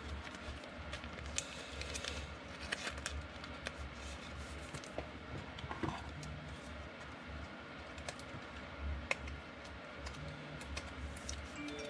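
Football trading cards being flipped through and handled by hand: light, irregular clicks and short slides of card stock, over a low steady hum.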